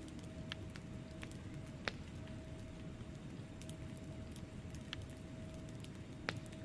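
Wood fire in a fireplace burning with a low steady rumble and scattered small crackles, with two sharper pops, one about two seconds in and one near the end.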